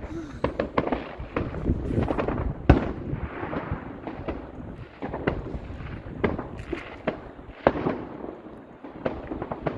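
Fireworks going off: an irregular run of bangs and crackles, many overlapping, with the loudest bang about two and a half seconds in.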